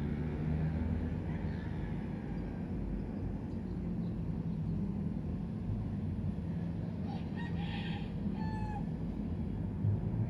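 A bird calling briefly about seven to nine seconds in, a short pitched call with overtones, over a steady low rumble.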